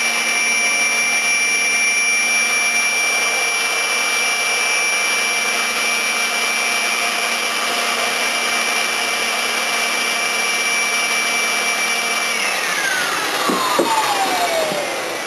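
Homemade small turbojet engine running steadily at about 70,000 rpm, a loud rushing noise with a high-pitched whine. About twelve seconds in it is shut down and the whine falls steadily in pitch as the turbine spools down, with a few clicks.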